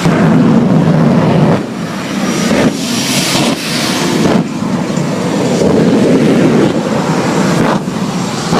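Jet engine of a jet-powered truck running loud in a string of surges, each a second or two long with short dips between: the truck doing burn-ups.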